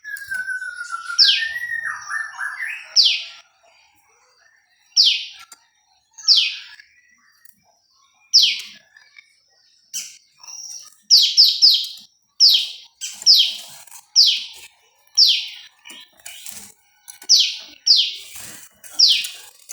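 Prenjak lumut calling: a repeated series of short chirps, each sweeping quickly down in pitch, roughly one every second or so, with a quick run of three in a row about eleven seconds in. In the first three seconds a lower whistle rises and wavers under the chirps.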